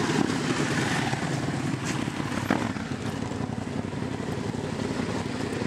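Sport motorcycle engine running steadily at a low, even speed.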